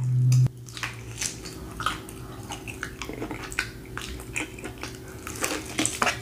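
Close-up mouth sounds of chewing grilled BBQ beef rib: many small, irregular wet clicks and smacks. A low hum cuts off about half a second in.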